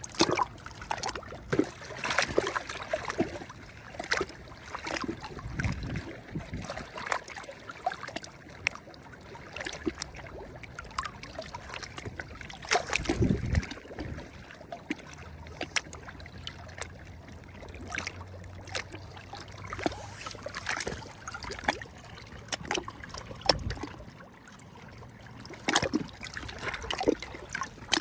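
Small sea waves lapping and splashing at the water's edge, an irregular run of short splashes and trickles with a few heavier low wave thuds, the strongest about halfway through.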